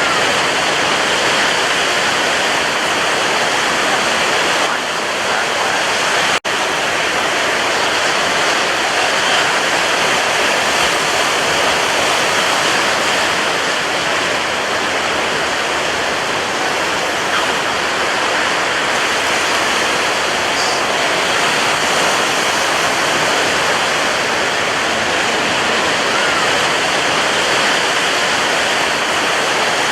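Sea surf: a steady, unbroken wash of breaking waves, with a split-second gap in the sound about six seconds in.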